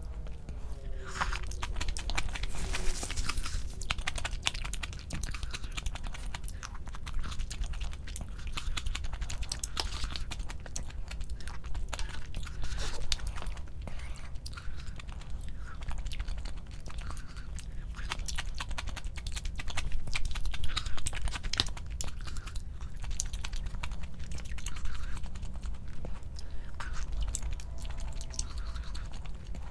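Close-miked eating sounds: chewing and biting, with many small irregular crunches and clicks.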